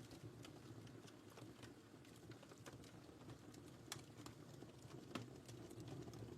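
Wood fire crackling faintly: scattered sharp pops and snaps, a louder one about four seconds in and another just after five, over a low steady rumble of the burning fire.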